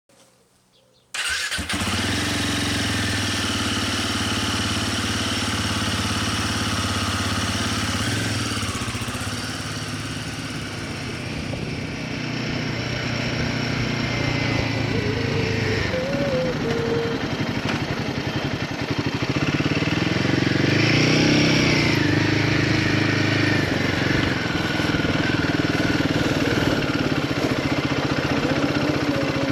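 Royal Enfield Himalayan 450's single-cylinder engine running, cutting in suddenly about a second in after near silence. Its pitch holds steady at first, then shifts and rises and falls again near two-thirds of the way through.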